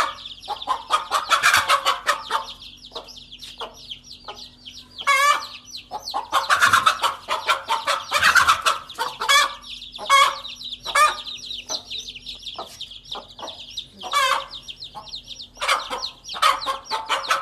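A hen clucking over a brood of chicks, whose high, rapid peeping carries on without a break, with louder bouts of clucking coming and going.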